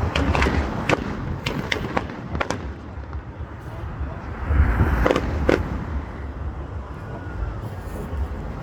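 Fireworks going off in the sky: a quick run of sharp bangs and cracks in the first two and a half seconds, then two more bangs a little past halfway, over a low background rumble.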